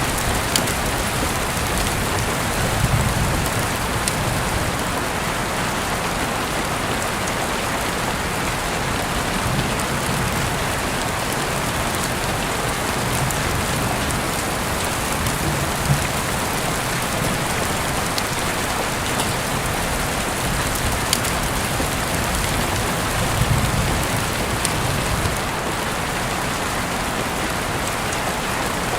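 Steady rain falling, with a few sharp clicks now and then and soft low rumbles around three seconds in, midway and near the end.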